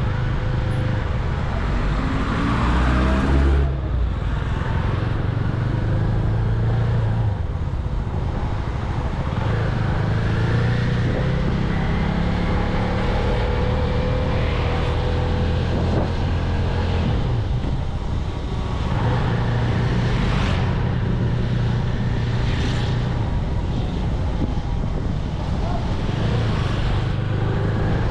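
CFMoto 250NK motorcycle's single-cylinder engine through its stock exhaust, ridden on the road: the pitch climbs as it accelerates and drops sharply at gear changes. Rumble sits underneath.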